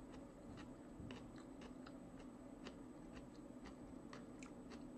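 Faint chewing, with soft, irregular mouth clicks and crunches as food is eaten.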